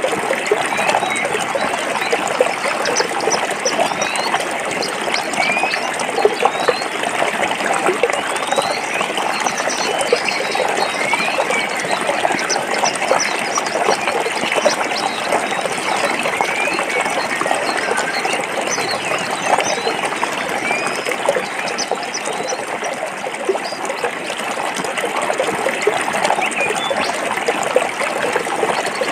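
Stream water flowing over rocks in a steady babbling rush, with short bird chirps scattered through.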